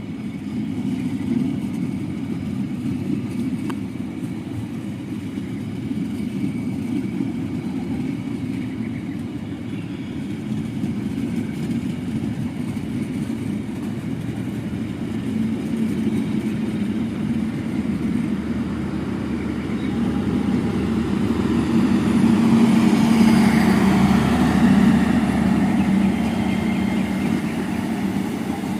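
Passenger train creeping past at walking pace over a speed-restricted stretch of track, a steady low rumble of the train running that grows louder in the second half.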